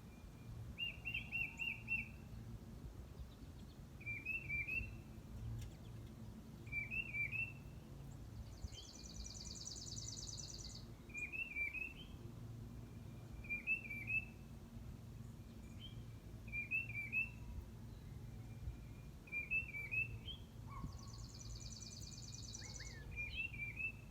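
Songbirds singing: a short chirped phrase repeated about every two to three seconds, and twice a high buzzy trill lasting about two seconds, over a steady low background rumble.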